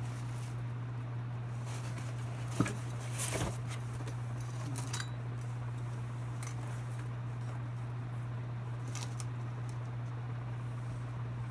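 Scattered clicks and rustles of ceiling fan parts and packaging being handled, with one sharp click about two and a half seconds in, over a steady low hum.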